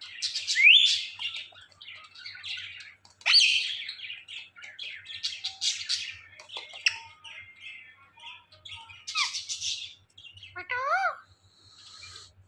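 Ringneck parakeet chirping and squawking: a busy run of short high chirps broken by a few louder rising squawks, the loudest in the first second and again a little after three seconds.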